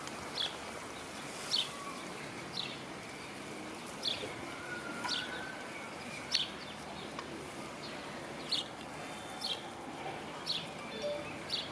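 A small bird calling: a short, high chirp that drops in pitch, repeated about once a second, over steady outdoor background noise.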